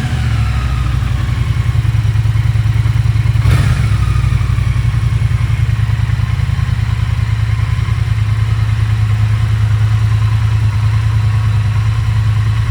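2022 Triumph T120's 1200 cc parallel-twin engine idling steadily while it warms up from a cold start, heard through its exhaust. A brief knock sounds about three and a half seconds in.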